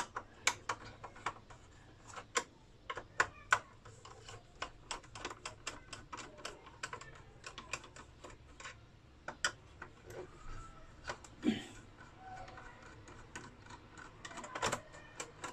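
Irregular clicks, taps and small knocks of a burnt inverter being taken apart by hand, with tools and plastic and metal parts being handled; a few louder knocks stand out.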